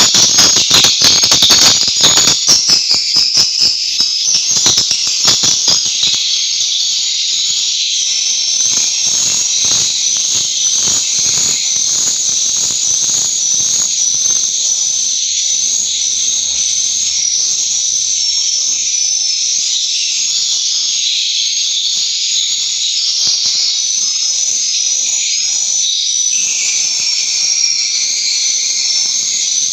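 Dense, high-pitched twittering of swiftlets: many short chirps repeating rapidly and overlapping without a break. During the first six seconds it is mixed with a run of sharp clicks.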